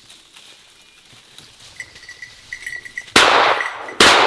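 Two shotgun shots fired at a flushing game bird, one just past three seconds in and the second under a second later, each very loud with a long echoing tail.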